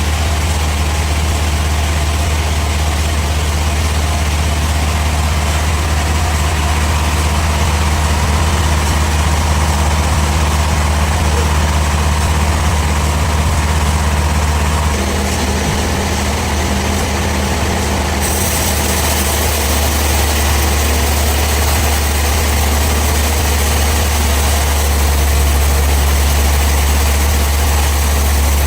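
Sawmill machinery running steadily with a heavy low hum; its tone shifts slightly about halfway through.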